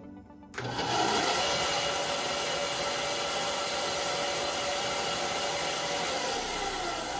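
Ryobi BS904G 9-inch benchtop band saw starting up suddenly just over half a second in, then running steadily as its blade cuts through wood.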